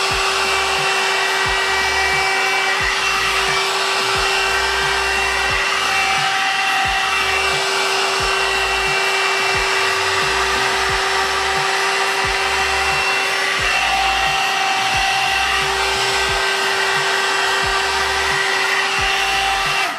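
LXIR Pro One-Step hair dryer volumizer brush running: a steady rush of air with a constant motor whine.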